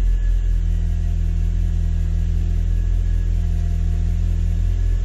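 Nissan Maxima's 3.5-litre V6 engine running steadily at about 1,700 rpm, a low even hum.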